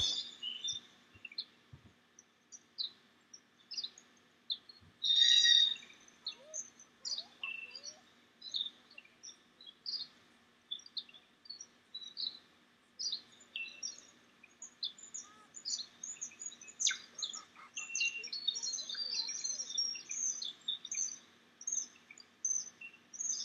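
Small birds chirping and twittering: many short, high calls in quick succession, thicker in the second half, with one louder, fuller call about five seconds in. A faint steady hum lies underneath.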